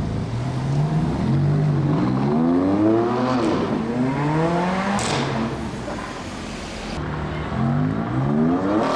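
BMW M3 F80's twin-turbo inline-six through a decatted custom M Performance exhaust, accelerating hard. The engine note climbs in pitch, falls away and climbs again about three times, with a sharp crack about five seconds in.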